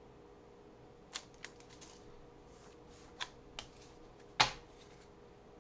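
Trading cards and pack being handled by hand: scattered light clicks and taps, with one sharper tap about four and a half seconds in.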